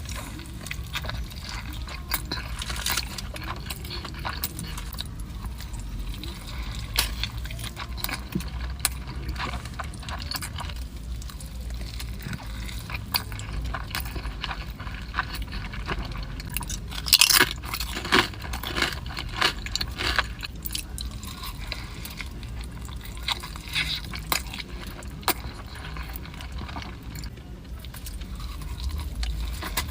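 Close-miked eating sounds of someone chewing a burrito: wet chewing and many small clicks and crackles, with a louder cluster of clicks a little over halfway through, over a steady low hum.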